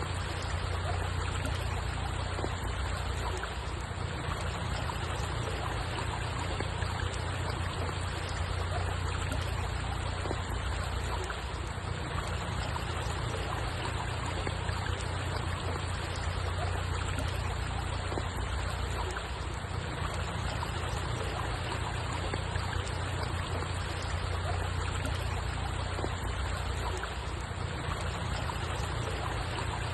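Steady running water: an even, unbroken rush with a low rumble underneath.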